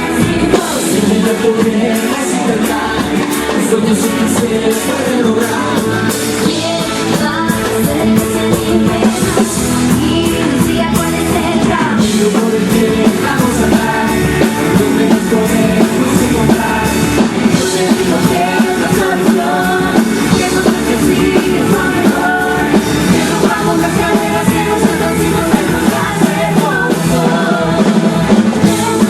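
Rock band playing live at a sound check, with a singer over guitar and drums, loud and continuous.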